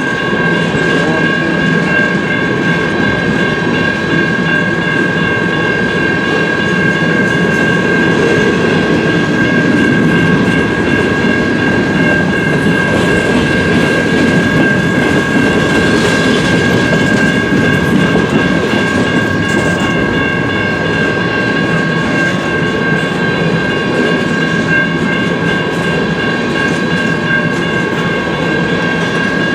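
Freight train rolling by, a steady loud rumble of wheels on the rails with a constant high ringing tone over it.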